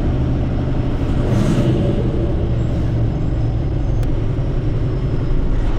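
Heavy diesel engine running steadily with a low rumble, and a brief hiss of air about a second and a half in.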